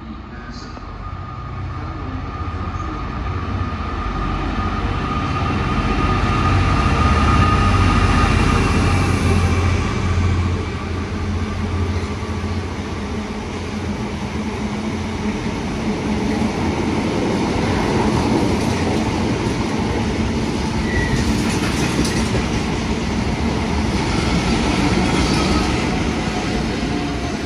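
Diesel-hauled freight train passing: the locomotive's deep engine drone builds to its loudest about eight seconds in, then a long train of wagons keeps rolling by with steady wheel noise and scattered clicks.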